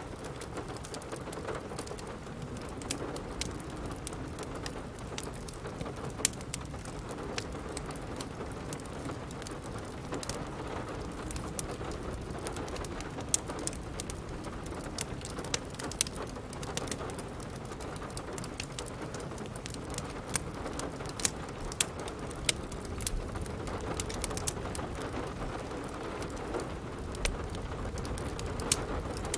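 Steady rain with a wood fire crackling, sharp pops and snaps scattered throughout.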